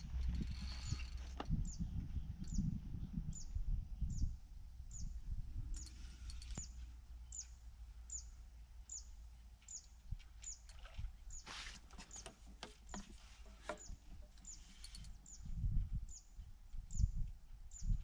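A small bird calling over and over: a short, high, downward chirp repeated evenly about every three-quarters of a second, with low rumbling on the microphone near the start and end.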